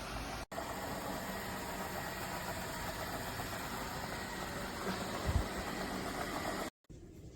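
Lefant M210 Pro robot vacuum running: a steady whirring hiss with a faint high whine. There is a low thump about five seconds in, and the sound cuts off near the end.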